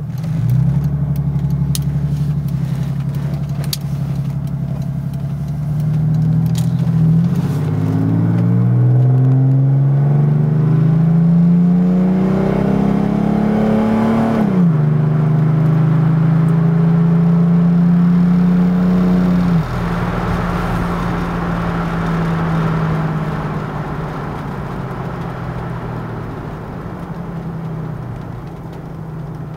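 1986 Mercedes-Benz 300SDL's 3.0-litre turbodiesel inline-six running through a straight-pipe exhaust, heard from inside the closed cabin as the car accelerates. The engine note climbs steadily, drops sharply at about 15 seconds and holds, drops again at about 20 seconds, then settles to a steady cruise and slowly fades.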